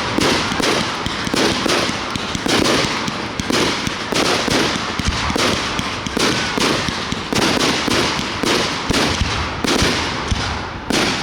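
Fireworks display: aerial shells bursting in quick succession, a dense, loud run of overlapping bangs, several a second, over a steady crackle.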